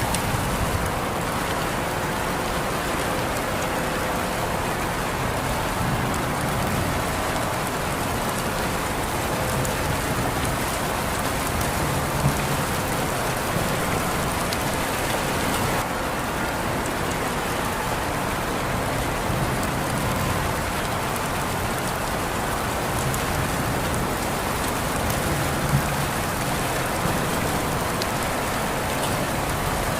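Steady rain falling: an even, constant hiss, with two sharper ticks, one about twelve seconds in and one near the end.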